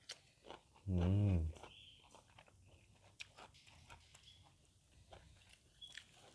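A person chewing food, with small wet mouth clicks, and a short hummed "mmm" about a second in.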